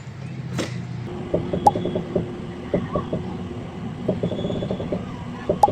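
Mechanical rattling and creaking in quick irregular runs of clicks, over a steady low rumble.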